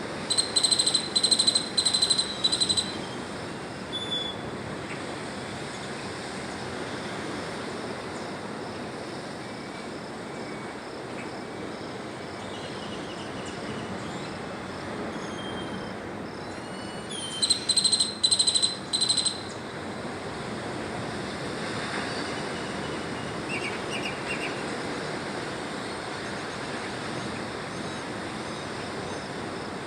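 Bird calls in the open air: a loud, rapidly repeated high note, about five times in a row, heard near the start and again about 17 seconds in, with a few fainter chirps between. A steady rushing background noise runs underneath throughout.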